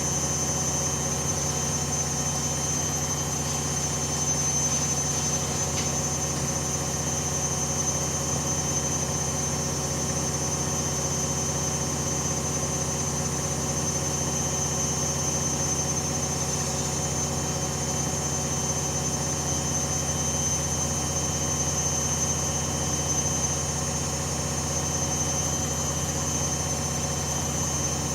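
Hoover Dynamic Next 7 kg washing machine spinning steadily at high speed, with a high-pitched motor whine over a steady hum.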